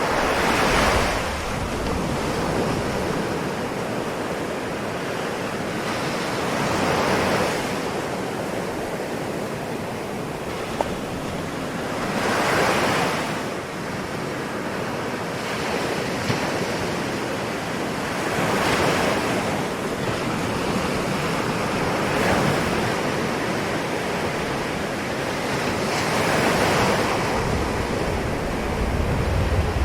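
Ocean waves surging onto a shore, five or six swells about six seconds apart, with a steady wash of surf in between.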